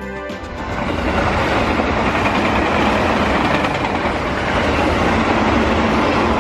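Sagano sightseeing train running along the track: a steady rumbling noise of the moving train cars, swelling in during the first second.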